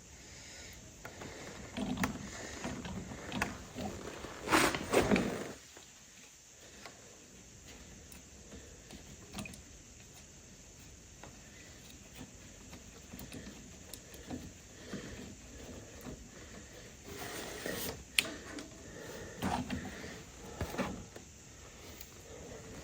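Clunks, rattles and rustling of hands working on a tractor with tools and parts. The loudest handling comes about two to five seconds in, with a single sharp click near the end.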